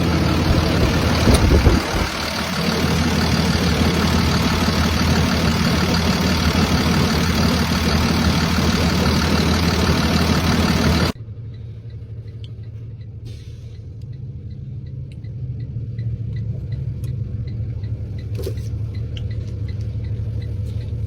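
A straight truck's diesel engine running loud and steady, heard from inside the cab. About eleven seconds in it drops abruptly to a quieter low engine hum with faint, evenly spaced ticks.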